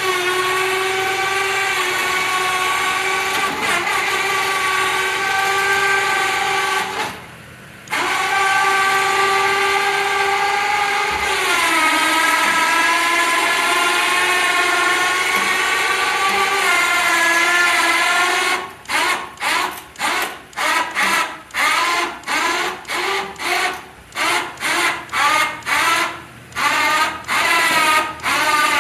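Post-mounted electric winch whining steadily as it winds in cable to roll a log up onto a sawmill bed by parbuckling. It stops for a moment about seven seconds in, and its pitch drops slightly a few seconds later. In the last ten seconds it runs in short jogs, about two a second.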